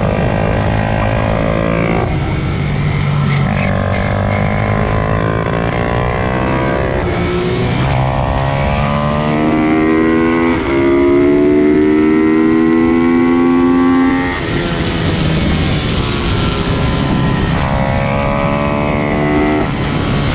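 Pit bike engines racing, revving up through the gears: the pitch climbs several times and drops at each gear change, with one long pull from about eight to fourteen seconds in.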